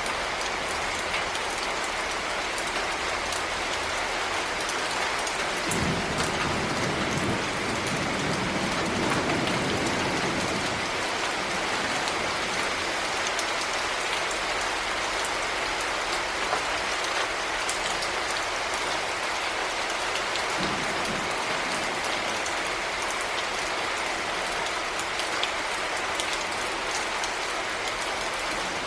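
Heavy rain falling steadily, a dense hiss full of sharp individual drop impacts. A low rumble swells under it for several seconds about six seconds in, and briefly again about twenty seconds in.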